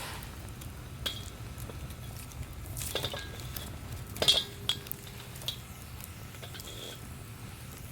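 Metal camp gear being handled: light clinks and knocks, the loudest about four seconds in, followed by a short ringing tone.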